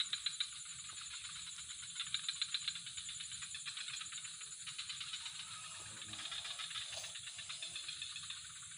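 Insects calling: bursts of rapid clicking trills, about a dozen clicks a second, over a steady high-pitched buzz.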